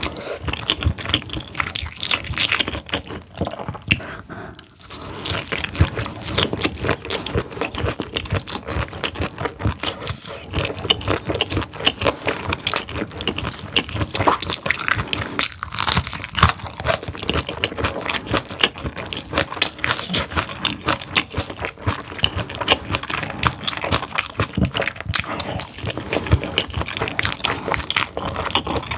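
Close-miked chewing of steamed whole squid: a dense, irregular run of sharp clicks and smacks as the rubbery flesh is bitten and chewed.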